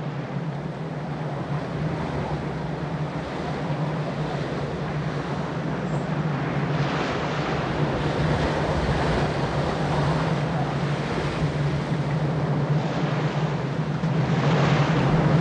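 Wind and rough seawater surging and washing in a steady rush, swelling louder a few times, over a steady low hum.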